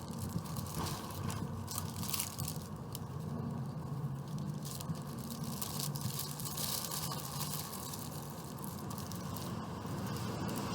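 Hard-shell Doritos Locos tacos being bitten and chewed, with scattered short crunches over a steady low background hum.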